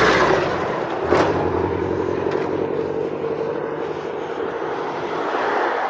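71-605A tram running on the rails: a steady rumble and hum of wheels and motors, with one sharp clack about a second in.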